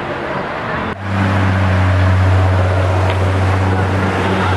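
Road traffic noise, an even steady wash of vehicles, with a strong steady low hum that cuts in abruptly about a second in and holds.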